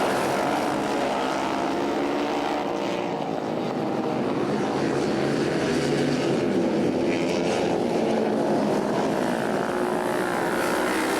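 Several flat-track racing motorcycles running at speed around a dirt oval. Their engines overlap in a continuous drone that rises and falls in pitch as the bikes throttle through the turns.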